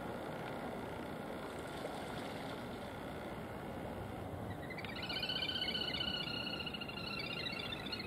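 Steady hum of road traffic. From about five seconds in, a bird gives a rapid, high, pulsing trill that lasts about three seconds.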